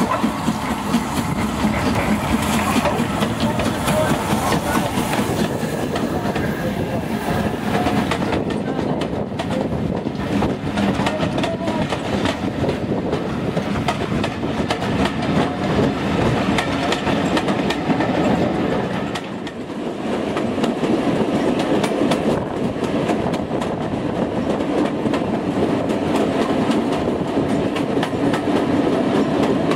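Railway coaches rolling past, their wheels rumbling and clattering over the rail joints. About two-thirds of the way through, the sound dips briefly and gives way to the steady rumble and clatter of a goods brake van's wheels heard while riding aboard it.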